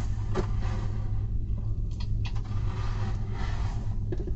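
Close-up mouth sounds of biting and chewing a soft bologna, egg and cheese sandwich, with a few short clicks and smacks, over a steady low hum.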